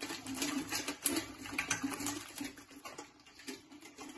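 Crabs being washed clean by hand: irregular scraping and clicking of the shells over a steady low hum.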